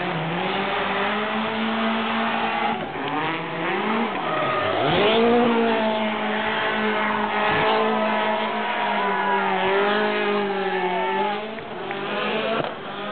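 Citroën DS3 WRC rally car's 1.6-litre turbocharged four-cylinder engine held at high revs, dropping and rising sharply in pitch a few times, while its tyres squeal as it slides.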